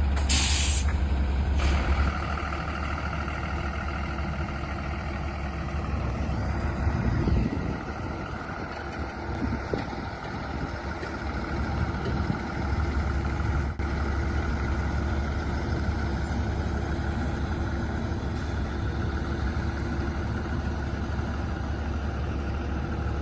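A heavy vehicle's air brake system gives a sharp burst of air hiss about a second and a half long at the start. The engine runs steadily underneath.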